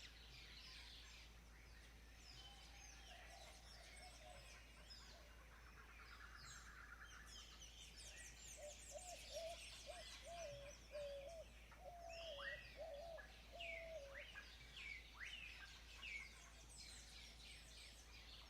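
Faint birdsong: several birds chirping and twittering, with short rising whistled calls and a lower wavering warble through the middle.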